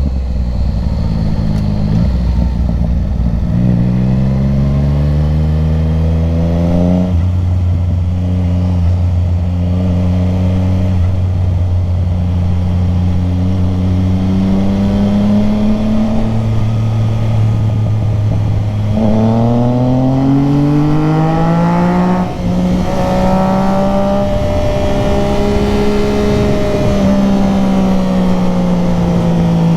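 Motorcycle engine under way, its pitch climbing as it accelerates and then dropping sharply at an upshift about seven seconds in. It runs steadily, climbs again, shifts up again about 22 seconds in, and settles into a steady cruise.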